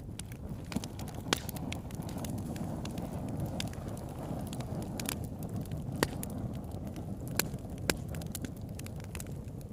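Wood campfire burning with a steady low rush of flames and irregular crackles and sharp pops, a few louder pops standing out.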